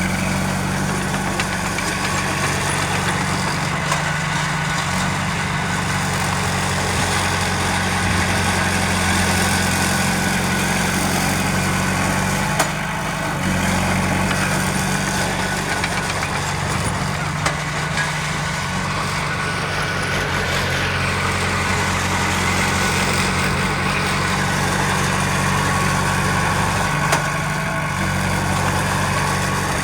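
Heavy diesel engine of earthmoving machinery running steadily, its low drone shifting a little in level a couple of times, with a few short knocks.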